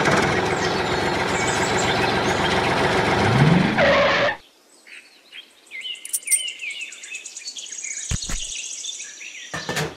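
A motor runs steadily for about four seconds, rising in pitch just before it cuts off suddenly. Bird chirps follow, with a single low thump near the end.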